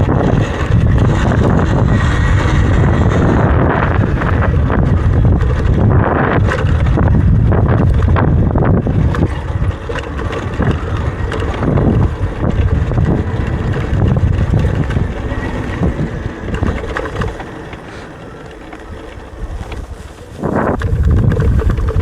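Heavy wind buffeting on the microphone while riding an electric dirt bike, a loud, rough rumble with no engine note. It eases off for a few seconds late on, then comes back loud.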